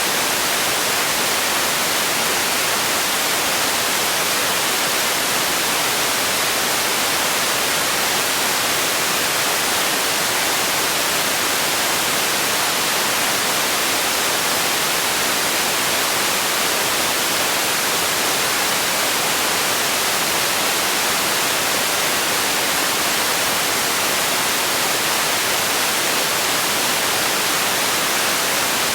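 Steady synthetic noise played as a sleep sound: an even, constant hiss that is strongest in the high range.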